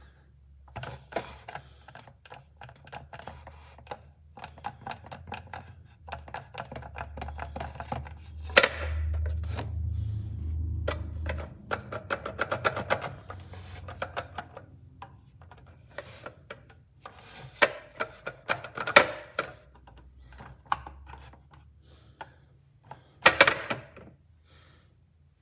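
Irregular clicks, taps and knocks of objects being handled, with a low hum swelling for a few seconds in the middle.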